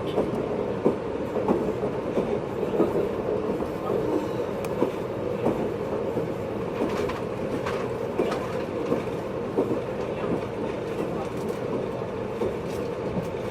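JNR 583-series sleeper electric train running at speed, heard from inside motor car MoHaNe 582-106: a steady running noise with irregular clicks of the wheels over rail joints.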